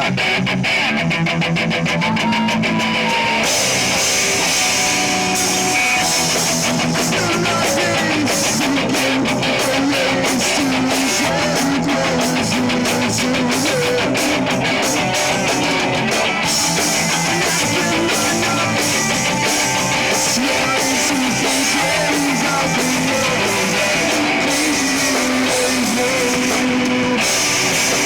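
Live rock band playing: guitars with a drum kit, loud and steady, no singing. Cymbals come in a few seconds in, drop out past the middle, and come back near the end.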